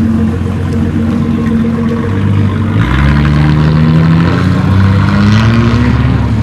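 Car engines running, then about three seconds in a louder car engine comes in, its pitch climbing steadily as the car accelerates away.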